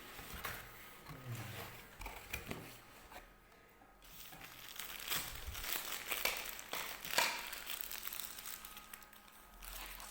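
Takeaway food packaging being handled and unwrapped, crinkling and rustling in irregular short bursts.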